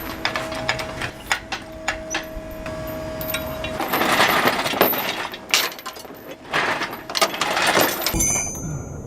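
Metal tools and car parts clinking and knocking, with two longer stretches of rattling and scraping near the middle and toward the end.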